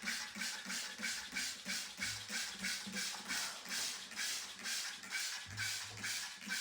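Hand spray bottle squeezed over and over, misting water onto a parrot in quick hissing squirts, about four a second.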